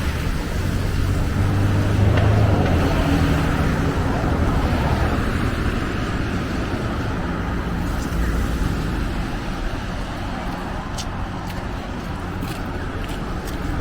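Street traffic: motor vehicles driving past with engine hum and tyre noise, loudest about two seconds in as a car passes close, then settling to a steadier background of road noise.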